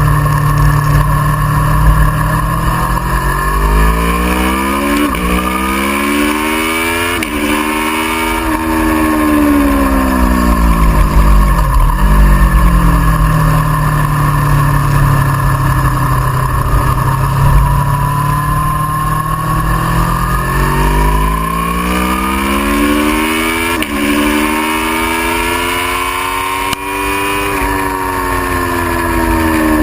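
Aprilia Tuono V4R's 1000 cc V4 engine pulling hard through the gears twice, with sharp drops in revs at each upshift, and revs falling away between the two runs as the bike slows for corners. A low rumble runs underneath.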